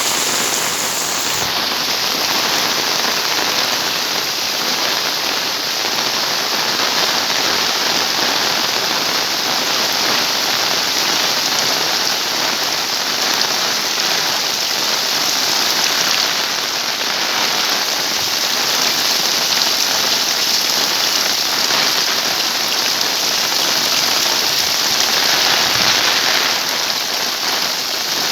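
Heavy rain pouring steadily: a dense, even hiss of rain falling on surfaces.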